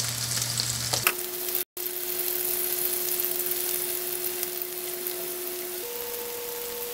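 Bacem tempe and tofu sizzling steadily as they fry in hot oil in a nonstick pan. A steady low tone sounds alongside, stepping up in pitch near the end. The sound cuts out completely for a split second about two seconds in.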